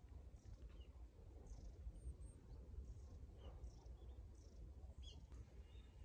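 Faint, short, high bird calls, repeated roughly once a second over a low steady rumble.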